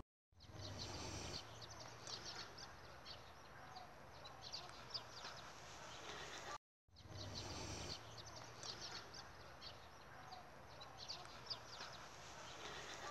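Faint outdoor ambience with many small birds chirping, short high chirps scattered throughout over a low background hum. The sound cuts out for a moment just after the start and again about halfway.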